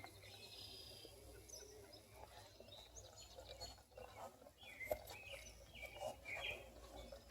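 Birds chirping faintly, a scattering of short calls every second or so over low, steady outdoor background noise.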